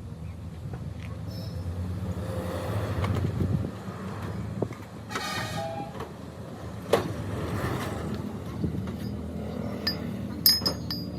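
A vehicle engine running steadily, with a few sharp knocks near the end.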